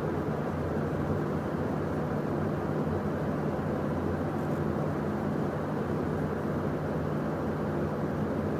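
Steady cockpit drone of a Beechcraft Premier 1A jet in climb, with engine and airflow noise and a constant low hum.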